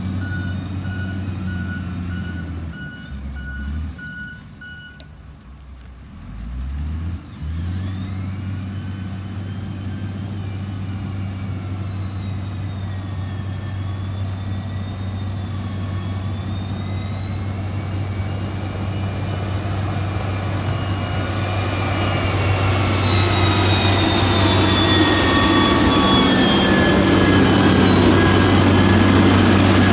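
Heavy diesel engine of a motor grader running, with a reversing alarm beeping steadily for the first five seconds. The engine falls away briefly a few seconds in, then picks up again and grows louder and higher in pitch toward the end.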